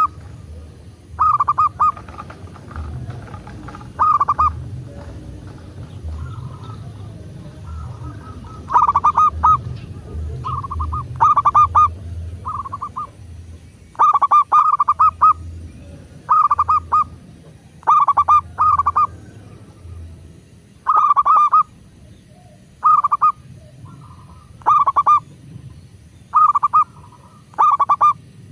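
Zebra dove (perkutut) cooing: a string of short, rapid, staccato coo phrases, each about half a second long, repeated every one to three seconds at uneven gaps. Fainter calls and a low hum sit underneath.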